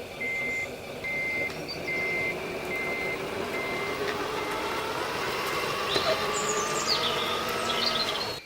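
Servonaut sound module in a Tamiya 1/14 Scania RC truck playing a reversing beeper, an even beep a little more than once a second that stops about four seconds in, over the module's simulated truck engine sound, whose pitch creeps slightly upward.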